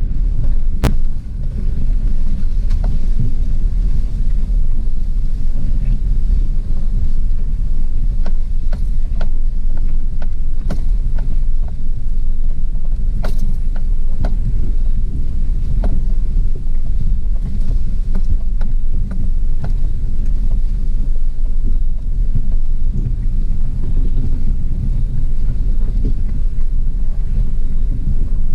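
Heavy low rumble of wind buffeting the microphone, unsteady throughout, with faint scattered clicks over it.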